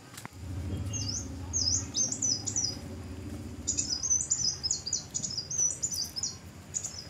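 A songbird singing: quick, high, repeated chirping phrases in two bouts, one about a second in and another from about four seconds on. A low rumble runs under the first half.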